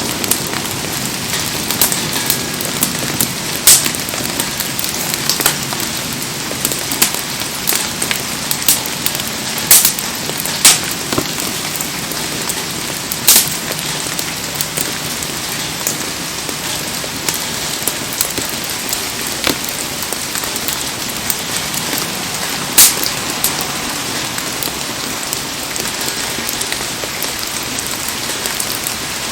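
Heavy rain falling steadily, with sharp pops at irregular intervals, about ten in all.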